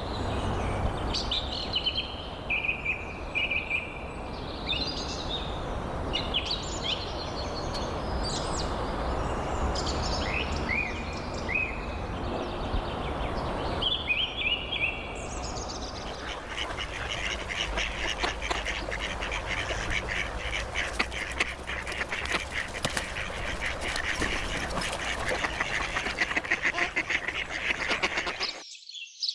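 Small birds chirping and calling in short rising and falling notes over a steady low rushing background; from about halfway the calls turn into a dense, rapid chattering of many birds. Near the end the background rush cuts off abruptly while the chirping continues.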